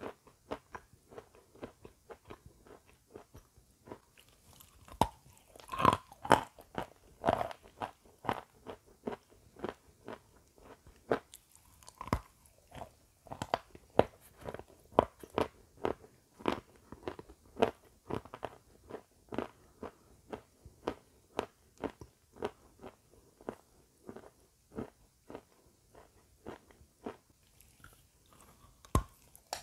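Close-miked chewing of a crunchy white snack: a steady run of sharp, crisp crunches as it is crushed between the teeth, with another bite taken near the end.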